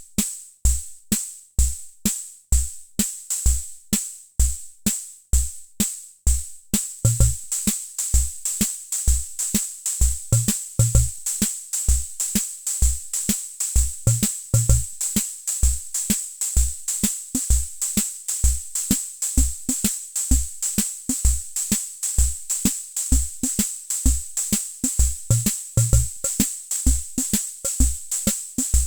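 Hammond Auto-Vari 64 analog drum machine playing a preset rhythm of bass-drum thumps and crisp high hi-hat clicks. About seven seconds in, the pattern switches to a busier one, with a steady hissing cymbal and extra low tom-like hits.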